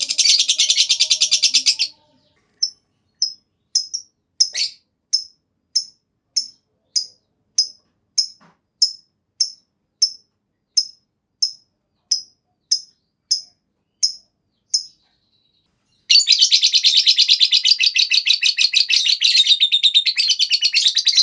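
Lovebird singing its long 'ngekek' chatter: a fast, high-pitched rattling trill, breaking off about two seconds in into a run of single sharp chirps roughly every half second, then going back into the long rapid trill for the last five seconds.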